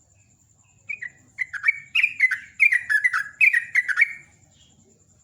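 Yellow-vented bulbul singing a fast, bubbly run of about ten chirped notes, each slurring downward, starting about a second in and lasting some three seconds.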